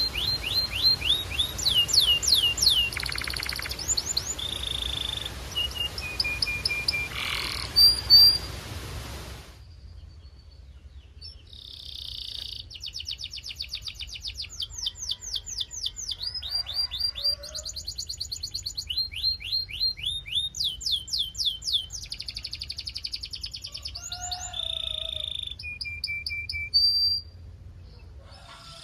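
Domestic canary singing in fast trills and rolls of rapidly repeated notes, switching from one phrase to the next, with some held whistled tones. The song pauses and the background hiss drops away about ten seconds in, and the singing resumes about two seconds later.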